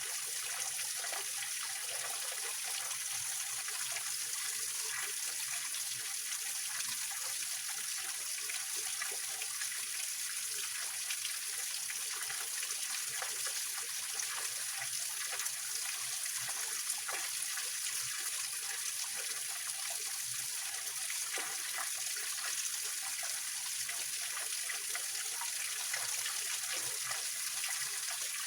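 Small waterfall of a mountain stream splashing and trickling over rocks, a steady hiss of water with many small splashes.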